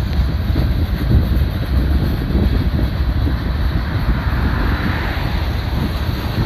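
Freight cars of a passing manifest train rolling along the rails at close range, making a steady low rumble. Wind buffets the microphone over it.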